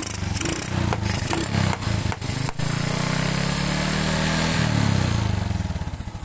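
Honda XRM 125's single-cylinder four-stroke engine running. It revs up about three seconds in, then drops back to a lower speed near the end.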